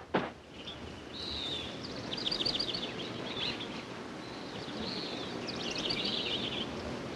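Small birds chirping in short, quick trills over a steady background hiss, with a brief sharp crack just at the start.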